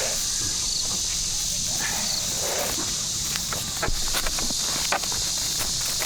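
Steady high-pitched drone of a summer insect chorus, with scattered rustles and sharp clicks about halfway through, typical of dry rice stalks being handled during a hand harvest.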